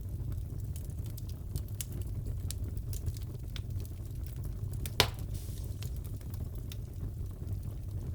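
Wood fire crackling in a fireplace: a steady low rumble of flames with scattered small crackles, and one loud pop about five seconds in.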